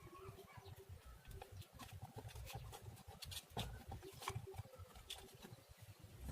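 Faint, scattered clicks and small taps from hands handling ribbon wire and amplifier boards while wiring the speaker outputs.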